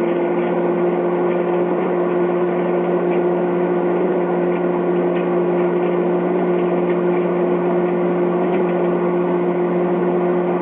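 Microwave oven running on high with a steady hum and fan noise, five CDs cooking inside, with a few faint crackles.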